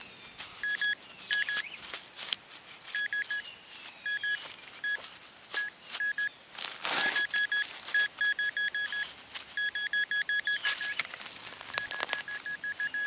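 Metal detector beeping over a buried target: short bursts of quick, same-pitched beeps that come faster and run into a steady tone near the end as the coin is pinpointed. Scrapes and knocks of digging in the soil come in between.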